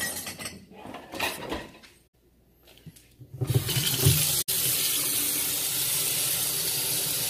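A few clinks of dishes, then, about three and a half seconds in, a kitchen tap is turned on and water runs steadily into the sink.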